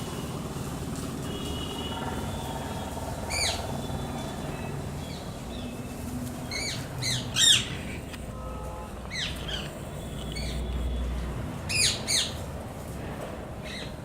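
Birds calling: short, falling calls in several bunches, the loudest about halfway through and again near the end, over a steady low background rumble.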